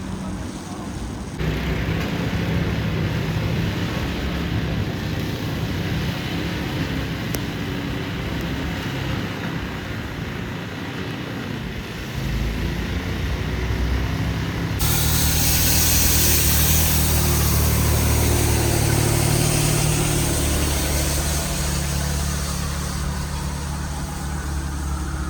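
Snowy city street ambience: vehicle engines humming and traffic noise. About halfway through, a louder hiss joins and eases off near the end.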